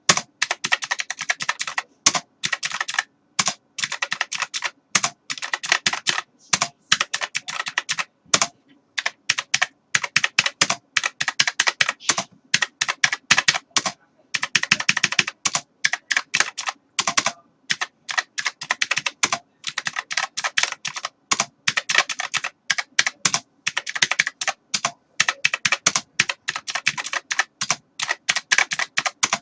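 Typing on a computer keyboard: fast runs of key clicks with brief pauses between flurries.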